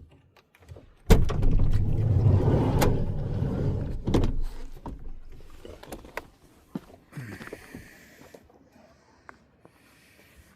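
A van's sliding door is pulled open with a sudden clunk about a second in, followed by about three seconds of heavy rumbling noise that dies away. Scattered small clicks and knocks follow.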